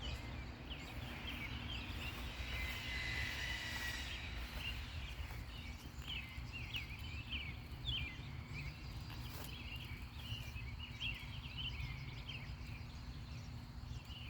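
A chorus of cicadas calling: many short, overlapping chirping calls over a steady low rumble, with one longer drawn-out call a couple of seconds in.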